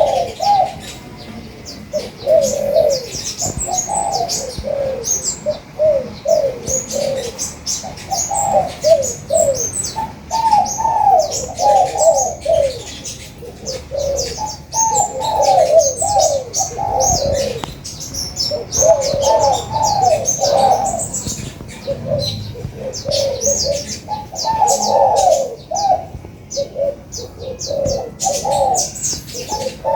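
Spotted doves cooing in repeated phrases without a break, with many short, high chirps of small birds over them.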